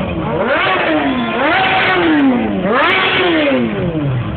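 Motorcycle engine being revved, its pitch rising sharply and falling back about three times.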